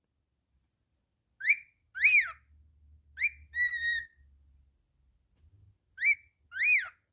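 Cockatiel whistling a repeated phrase: a short rising chirp followed by a longer whistle that rises and falls, twice, with one steady held note in between.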